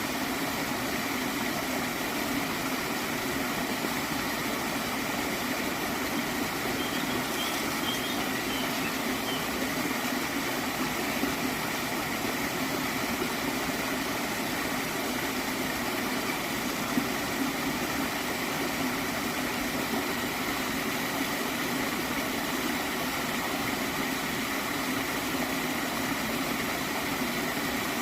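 Stream of water flowing and gurgling in a steady, unbroken rush.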